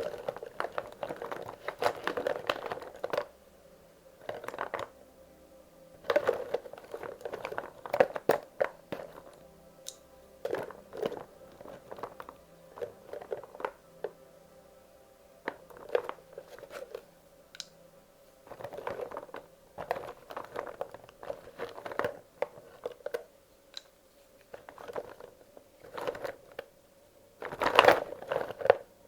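Wax crayons clicking and clattering against one another as they are handled and sorted by hand. The clatter comes in bursts with short pauses between, and the loudest handful comes near the end.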